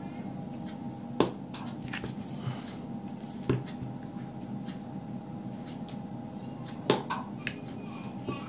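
Battery spot welder welding a row of lithium-ion cells: sharp snaps of the weld pulses, the loudest about a second in and near seven seconds, with fainter clicks between, over a steady hum.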